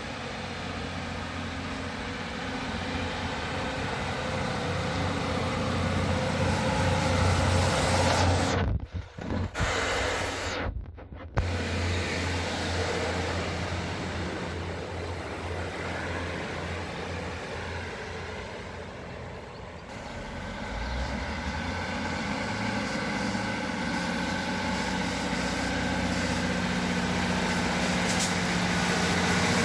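A train running at a railway station: a steady low engine drone that rises and falls in level, broken by two short dropouts about nine and eleven seconds in.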